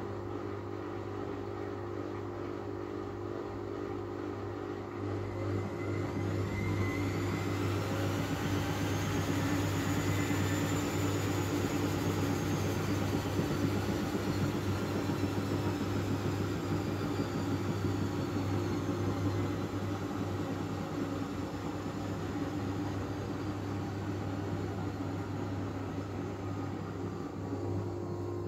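Miele W433 washing machine drum spinning in an interim spin of about 600 rpm, with a steady low hum. The motor whine rises over a few seconds, then slowly falls off again as the machine detects suds (suds lock) and holds the speed back.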